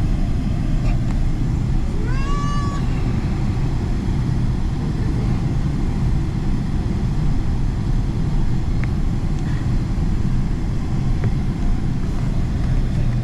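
Steady low rumble of a Boeing 777-300ER's GE90 engines and airflow heard inside the passenger cabin. About two seconds in, a short high-pitched cry rises and then holds briefly.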